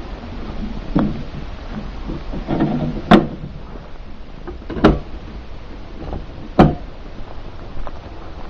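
Low, steady rumble of a moving car heard from inside, with four sharp knocks or jolts, the loudest about three, five and six and a half seconds in.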